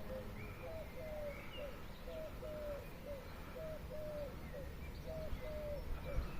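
Bird calling outdoors: a steady run of short, low notes, each rising then falling, about two a second, with faint higher chirps of other birds.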